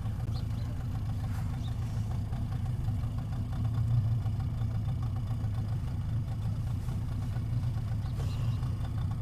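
Rescue boat's motor running steadily at an even speed, a low hum with no change in pitch.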